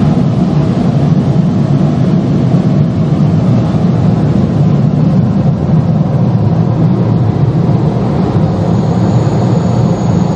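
Automatic car wash air-dryer blowers blasting a loud, steady rush of air over the car as it creeps out of the wash.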